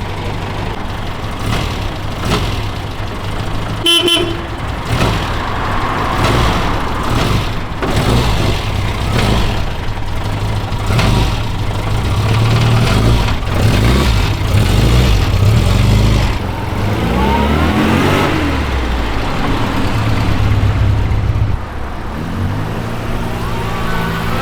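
Car engine running as the car drives off, its note rising as it speeds up about 17 seconds in, with a single short horn toot about four seconds in.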